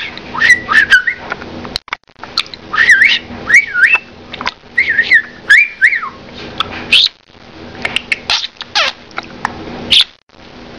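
Pet budgerigar warbling and chattering: quick chirps that rise and fall in pitch, mixed with short clicks, in several bursts.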